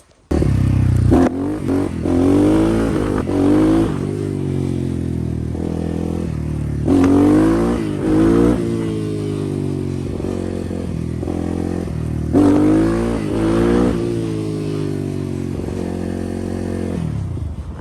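Pit bike engine revving hard in three bursts, each rising and then falling back, with steadier running between; the sound cuts in suddenly just after the start.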